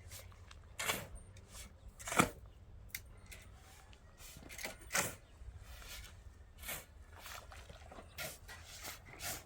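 Irregular knocks and clicks, one every second or two, the sharpest about two seconds in, over a low steady rumble.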